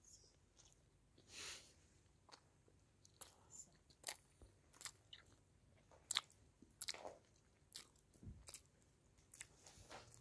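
Someone chewing a bite of falafel sandwich: crisp fried falafel in soft white bread with tomato, giving short, irregular crunches every half second to a second.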